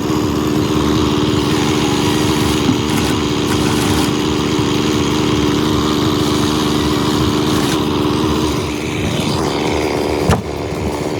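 Small engine running steadily at constant speed, a loud even hum, with one sharp click about ten seconds in.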